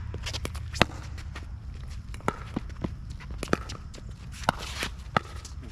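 Pickleball rally: paddles hitting the plastic ball and the ball bouncing on the court, about five sharp pops roughly a second apart, with players' footsteps on the wet court.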